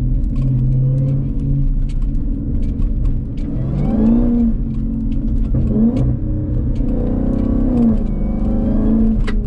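Jeep Grand Cherokee Trackhawk's supercharged 6.2-litre Hemi V8 running as the SUV drives at low speed. The engine note rises and falls about four times with light throttle.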